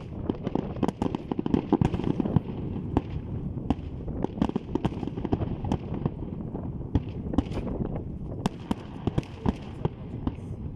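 Fireworks bursting in quick succession: a dense run of bangs and sharp cracks over a continuous rumble of booms, busiest in the first few seconds.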